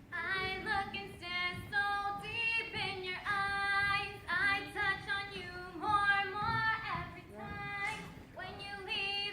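A female voice singing a melody in phrases of held notes.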